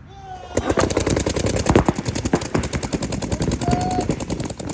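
Paintball markers firing in rapid strings, many sharp shots a second, starting about half a second in and running on without a break.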